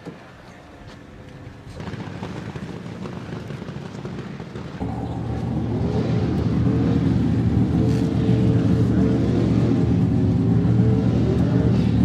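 A motor vehicle's engine running, growing louder about two seconds in and again about five seconds in, with a wavering higher tone over the steady rumble.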